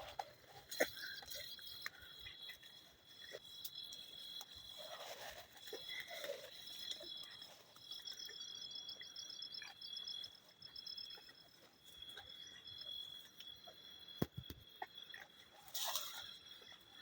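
Night insects chirring in a steady high drone, with a faster pulsing trill joining for a few seconds midway. Scattered soft rustles and clicks sound over it, with a louder rustle near the end.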